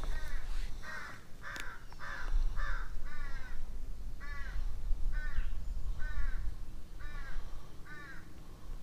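A bird calling over and over, about a dozen short calls each arching up and down in pitch, one roughly every two-thirds of a second.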